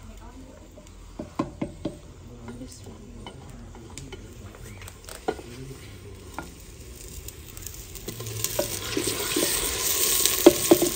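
Ground green masala paste of ginger, garlic and green chilli going into frying onions in a clay cooking pot and being stirred with a long spoon. Scattered knocks and scrapes of the spoon come first, then a sizzle that grows louder from about eight seconds in, with a few sharper knocks near the end.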